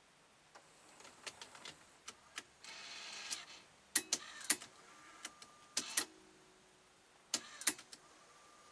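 Tape-transport mechanism of a Sony DTC-A7 DAT deck working: a string of sharp clicks, a short motor whir about three seconds in, then more clicks with brief steady hums between them.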